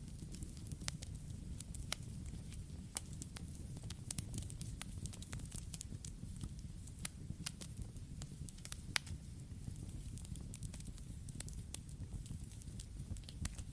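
Wood campfire crackling, with frequent irregular sharp pops and snaps over a steady low rush of flames; the loudest pop comes about 9 seconds in.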